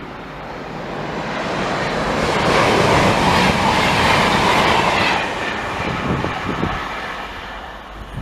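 A train passing through, growing louder, at its loudest from about two and a half to five seconds in, then fading away.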